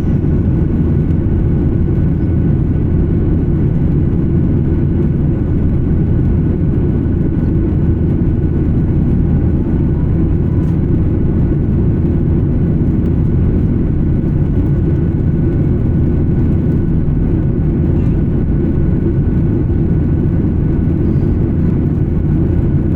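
Steady cabin noise of an Embraer 175 regional jet in flight: an even, low rumble of engines and airflow, with a faint steady whine above it.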